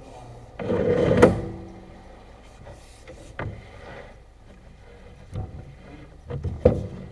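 A series of knocks and clunks, the loudest a rough scrape-like sound ending in a sharp knock about a second in, followed by a few scattered single knocks.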